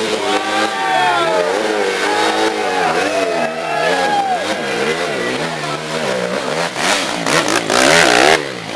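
Dual-sport motorcycle engine revving up and down repeatedly as the bike works through a creek. Near the end a loud rush of splashing water, the loudest part, cuts off suddenly.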